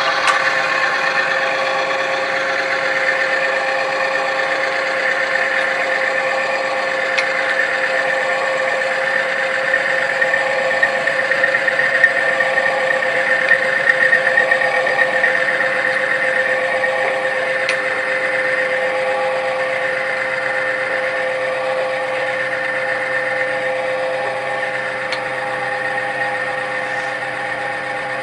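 A test machine running steadily in Shell Helix Ultra Professional 5W30 oil with Metal Guard additive added, giving a constant mechanical hum with a whine held at one pitch.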